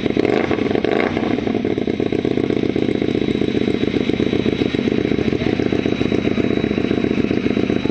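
Motorcycle engine running steadily through a loud aftermarket exhaust, a fast even beat with no revving.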